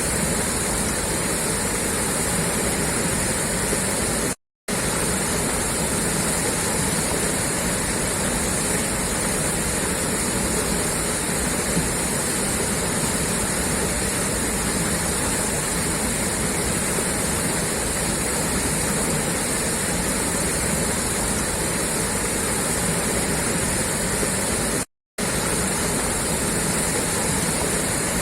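Water gushing steadily out of a pipe outlet, a constant rushing noise that cuts out for an instant twice.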